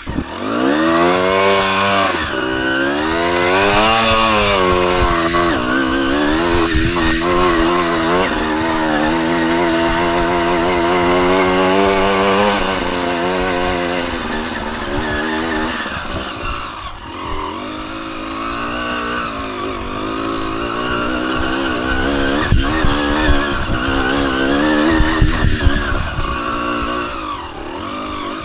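Dirt bike engine revving up and down as it is ridden over rough trail, the pitch climbing and dropping with the throttle and steadying for a few seconds in the middle, with low thumps and wind rumble in the later part.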